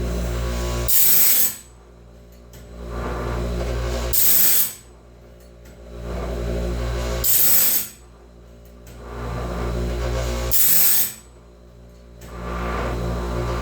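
Homemade bandsaw-band sharpener working through the teeth. A grinding wheel over a steady motor hum swells, holds, and ends in a short, bright grinding burst, repeating about every three seconds, once for each tooth as the band is indexed along.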